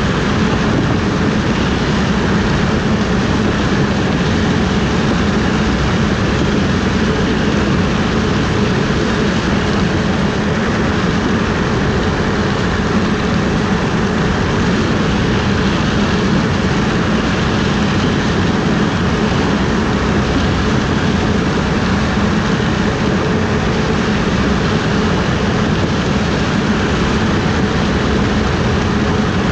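Combine harvester running steadily under load, a constant heavy engine and machinery drone with no change in pitch or level.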